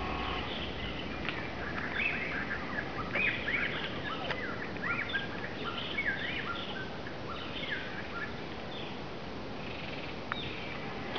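Birds chirping and calling: many quick, arched, rising-and-falling notes, thickest between about two and seven seconds in, over a steady background hiss.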